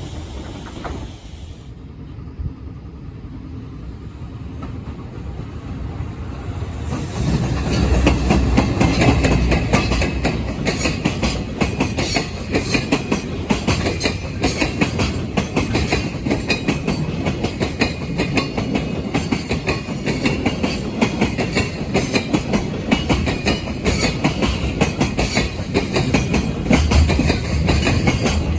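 Freight train approaching, then passing close by from about seven seconds in, its wagon wheels clicking rapidly over the rail joints.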